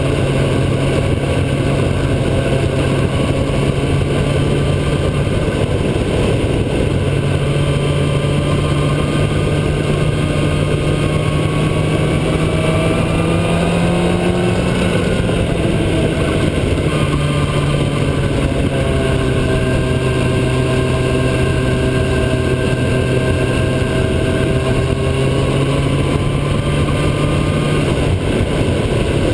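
Motorcycle engine running steadily while riding. Its pitch rises gradually to about halfway, drops, then holds steady.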